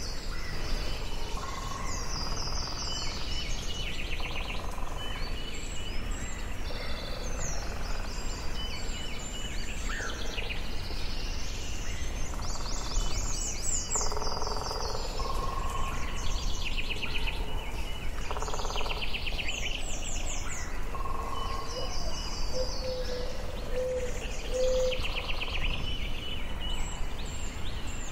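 Forest birdsong: several birds singing overlapping chirping phrases, some rapid trills and some short whistled notes, over a steady low background noise.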